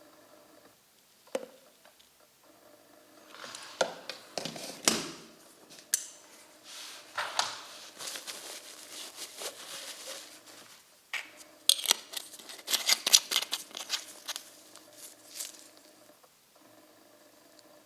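Clicks, scrapes and rustles of small hard objects being handled, in several bursts, the busiest a quick run of clicks in the second half, over a faint steady hum.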